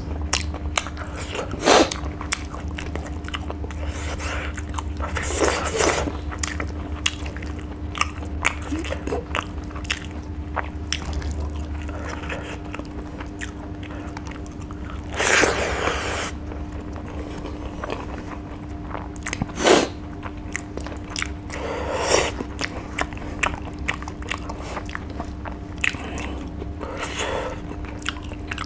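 Close-miked chewing and biting of dried fish and rice eaten by hand: a steady run of wet mouth clicks and crunches, with a few louder bites standing out.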